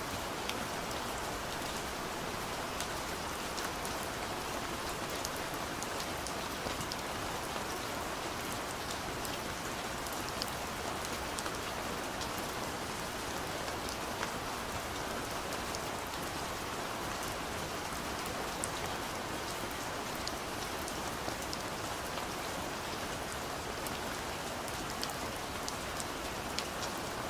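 Gentle, steady rain on a window pane: an even hiss with many small, separate drop ticks against the glass.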